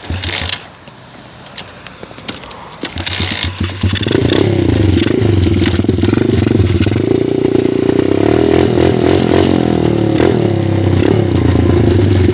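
Some clattering and scraping, then about four seconds in a dirt bike engine comes up loud and runs steadily.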